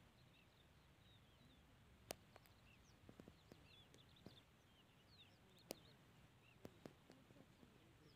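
Faint chirping of small birds, many short calls, with a few sharp clicks, the loudest about two seconds in and another near six seconds.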